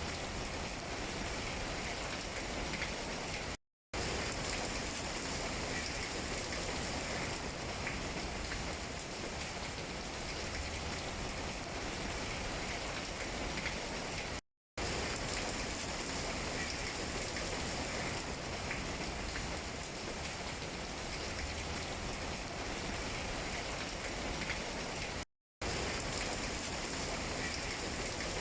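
Steady rain falling on tree leaves: a dense, even hiss with faint scattered drip taps. The sound cuts out to silence for a fraction of a second three times, about every 11 seconds, where the recording loops.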